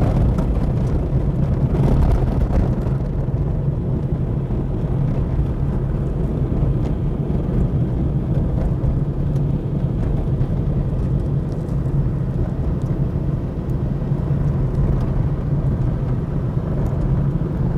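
Car driving at a steady pace, heard from inside the cabin: an even engine hum with road and tyre noise.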